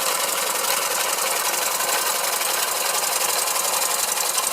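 Small hand-built oscillating engine of 1912 running on compressed air, driving a line shaft and toy models: a fast, even mechanical clatter over a steady hiss.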